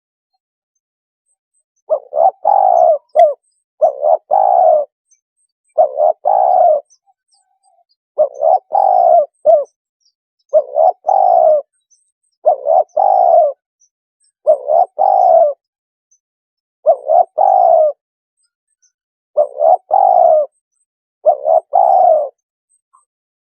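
Spotted dove cooing: about ten repeated phrases, roughly one every two seconds, starting about two seconds in, each a couple of short notes and then a longer drawn coo. It is the dove's call used as a decoy to lure wild spotted doves in.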